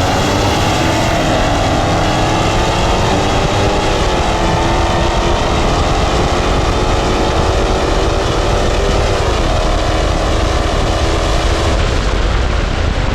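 Dodge Hellcat's supercharged 6.2-litre V8 at full throttle in a roll race from 60 mph. The pitch climbs, drops with an upshift about four seconds in and again about nine and a half seconds in, then eases off near the end. The tyres spun on this run.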